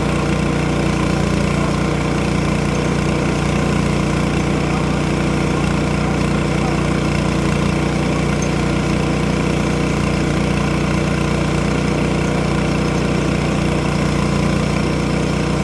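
Sawmill engine running steadily at an even pitch, with no change in speed.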